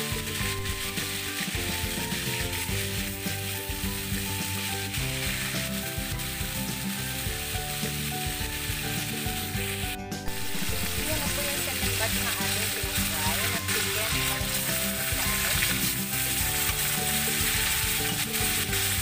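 Chicken pieces sizzling as they fry in hot oil in a steel wok, turned now and then with metal tongs. The sizzle breaks off briefly about halfway and comes back louder.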